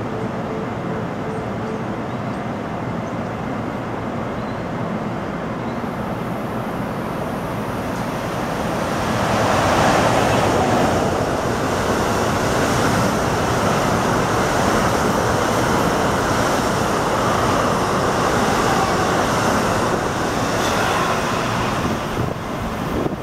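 NJ Transit multilevel commuter train running past the station platform: steady wheel-on-rail rumble and rushing noise of the passing double-deck coaches, which gets louder about nine seconds in as the cars go by close.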